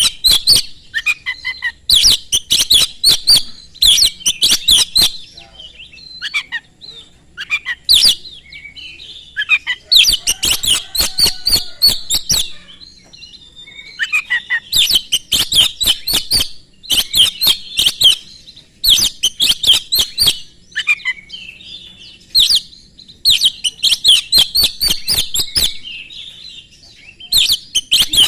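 Oriental magpie-robin (kacer) singing hard, in loud phrases of rapid, sharp, high-pitched notes. Each phrase lasts about one to two seconds, with short pauses between them.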